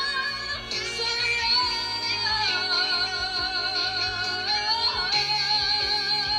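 Female singers holding long sustained notes with vibrato over backing music, the closing held note of a ballad. The pitch steps down about two and a half seconds in and rises again near the end.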